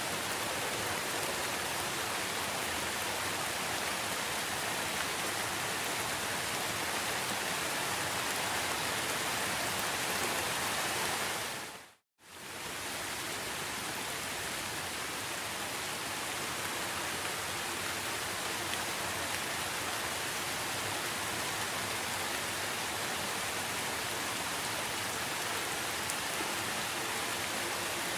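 Steady, even rain hiss. Just before twelve seconds in it fades briefly to silence, then fades back in.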